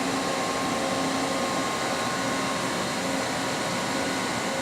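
Steady whirring of running machinery, an electric motor or fan, with a constant hum of several tones and no change in speed.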